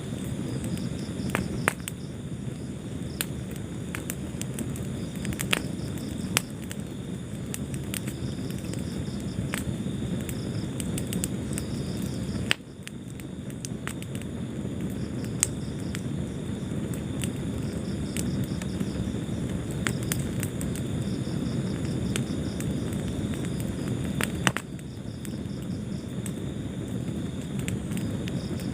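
Wood fire in a fireplace burning with a steady low rumble and scattered sharp crackles and pops. A faint high pulsing chirr runs underneath. The whole sound dips briefly twice, about halfway through and near the end.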